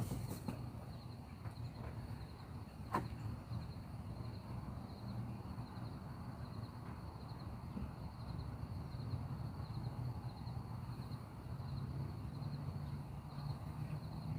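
Insects chirping in a steady, even high-pitched pulse over a low outdoor rumble, with a sharp click at the start and another about three seconds in.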